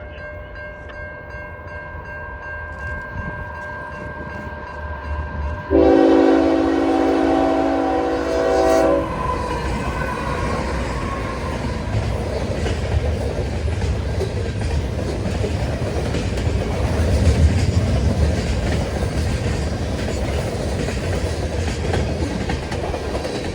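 CN freight train M303 passing at speed. The locomotive's horn sounds a loud blast of about three seconds, about six seconds in. The train then rushes by with a low engine rumble and wheels clattering over the rails.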